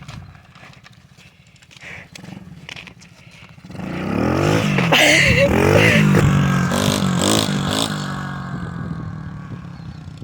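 SSR pit bike's small four-stroke single-cylinder engine revving hard, its pitch rising and falling, starting about four seconds in and fading away near the end. Scattered clicks and knocks come before it.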